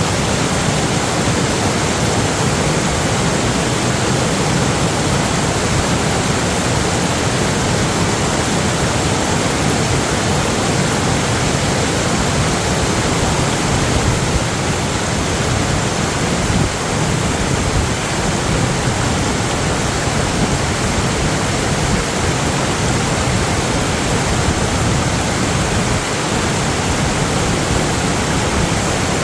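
Rushing floodwater: a loud, steady, even rush of water with no break.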